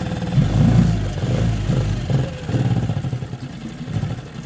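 Boat outboard motor running with its fuel hose disconnected, surging unevenly as it burns off the gasoline left in its carburetors. Its level sags towards the end.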